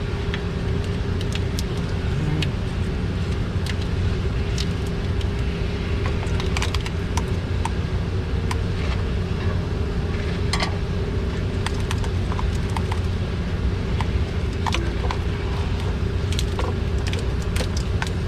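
Hand tools and plastic engine parts clicking and rattling as covers and clips are worked loose, over a steady mechanical hum.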